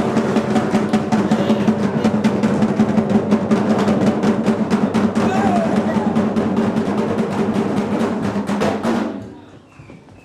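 Fast drumming music: dense, rapid drum strokes over a steady low sustained tone, stopping about nine seconds in.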